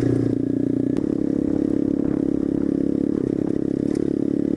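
Small single-cylinder pit bike engine running at a steady, even speed under way, its firing pulses giving a fast, even buzz.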